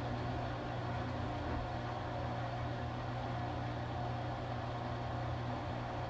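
Washing machine running with a steady low motor hum and an even whirr, unchanging throughout.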